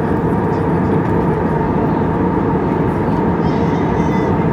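Airbus A319 jet engines (IAE V2500 turbofans) running as a steady, loud roar with a couple of steady tones in it.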